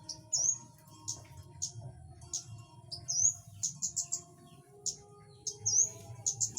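A bird giving a run of high, sharp chip calls, several a second and unevenly spaced, some with a quick rising hook, over a faint low background hum.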